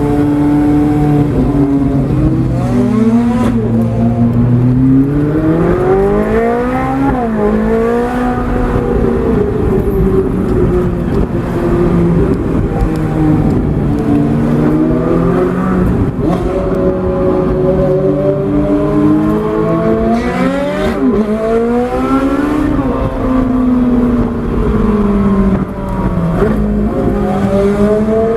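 Straight-piped Ferrari 458 Italia's V8 running hard under repeated acceleration, its note climbing, dropping and climbing again several times as the car speeds up, shifts and lifts off.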